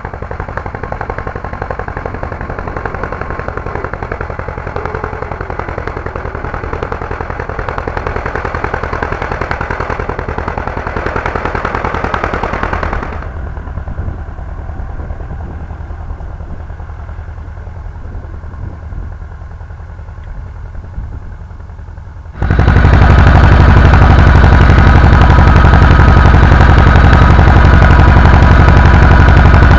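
Władimirec T-25 tractor's two-cylinder air-cooled diesel running under load while ploughing, with a rapid, even knocking beat. The sound drops in level about halfway through, then abruptly becomes much louder and closer near the end.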